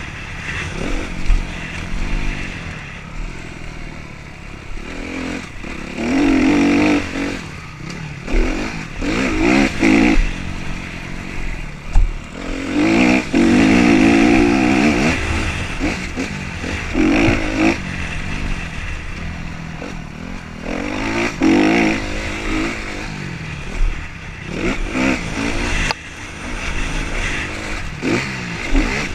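Motocross bikes running on a dirt track, engines revving hard and easing off as several bikes come past in turn, with a surge every few seconds.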